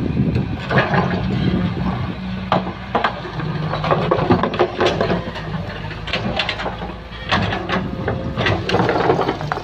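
Excavator's diesel engine running steadily under load, with repeated clanks, knocks and scrapes from the machine at work.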